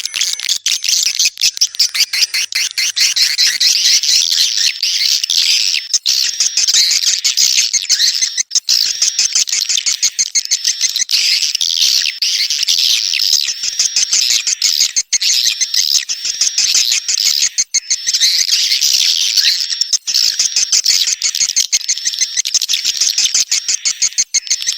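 Swiftlets calling: a dense, unbroken chatter of high chirps and twitters, laced with rapid clicks.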